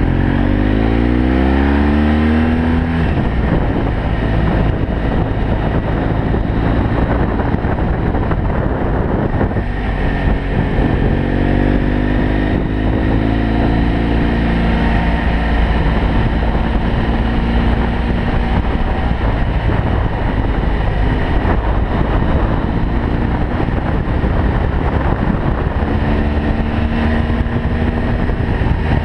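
BMW F800GS Adventure's parallel-twin engine under way: its revs drop in the first few seconds, climb again around the middle and once more near the end, over a steady rush of wind noise.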